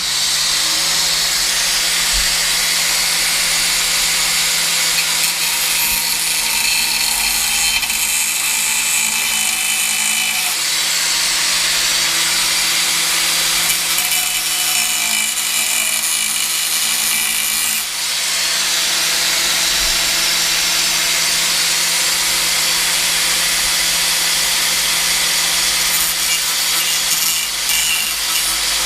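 Angle grinder with a thin stainless-steel cutting disc cutting through thick stainless-steel motorcycle header pipe, a steady high-pitched grinding over the motor's hum. It dips briefly about eighteen seconds in, then carries on to finish the cut.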